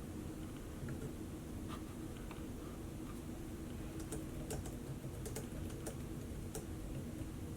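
Typing on a laptop keyboard: a few scattered keystrokes, then a quicker run of key clicks from about four seconds in, over a steady low hum.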